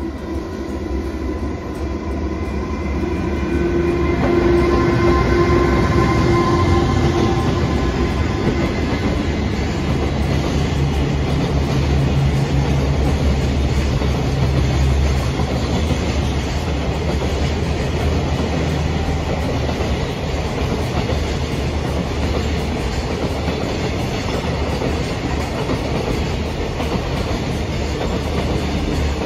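A train running past on the rails: a steady heavy rumble with wheels clattering over rail joints. A hum with a few steady tones is heard in the first several seconds and fades out.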